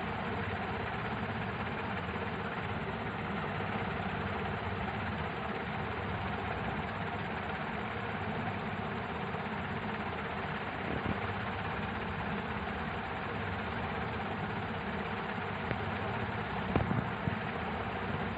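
A steady mechanical hum and hiss, with a brief knock about eleven seconds in and a few sharper knocks near the end.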